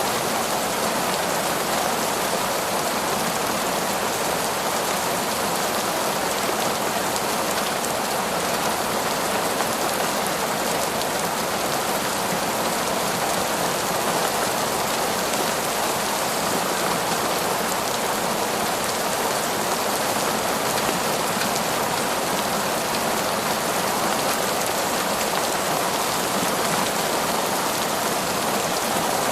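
Heavy torrential rain falling steadily in a forest, an even, unbroken hiss with no thunder.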